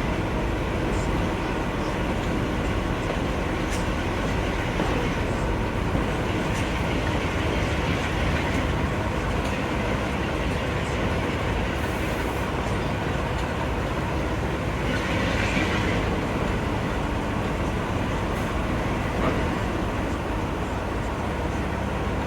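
A train running on the railway line, a steady, unbroken rumble.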